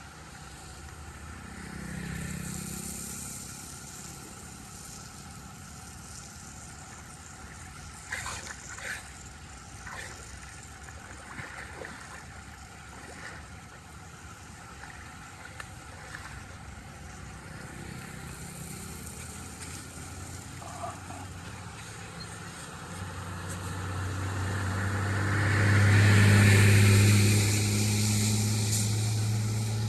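Steady rush of running water with a few scattered knocks, then an engine hum that builds about three quarters of the way through and becomes the loudest sound before easing slightly.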